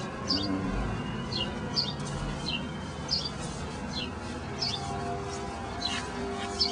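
A bird chirping over and over, short high chirps about every half second, over a steady low background rumble.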